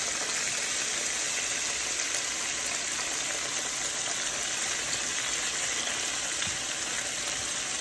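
Raw chicken breast strips frying in hot oil with minced garlic in a skillet: a steady sizzle.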